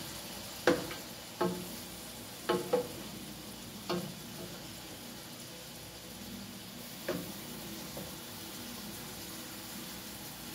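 Liver slices frying in oil in an aluminium pot with a steady sizzle, while a metal spatula turns them, tapping sharply against the pot several times, mostly in the first four seconds and once more about seven seconds in.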